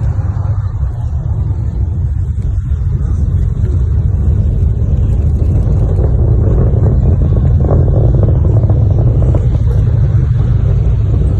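Distant rumble of a SpaceX Falcon 9 rocket's nine Merlin engines during ascent, a deep steady roar that grows louder about four seconds in.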